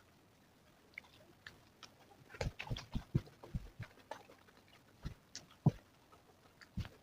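Close-miked eating: chewing and wet mouth smacks, starting about a second in as irregular short clicks and soft thumps, with one sharper click near the end.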